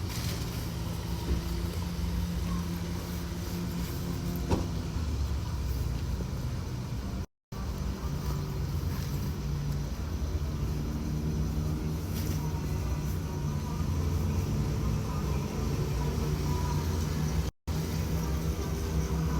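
Motorcycle engine running steadily while riding, with two short dropouts where the sound cuts out completely.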